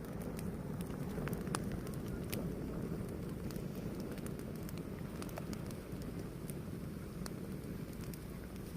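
Fire burning with a steady low rush and scattered sharp crackles and pops at irregular intervals.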